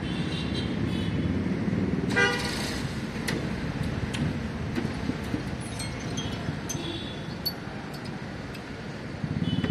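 A short car horn toot about two seconds in, over a steady rumble of traffic and engines, with scattered small clinks and ticks.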